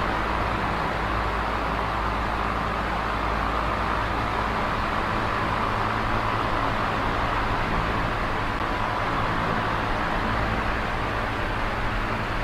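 Small electric oscillating fan running steadily: an even rush of air with a steady low motor hum beneath.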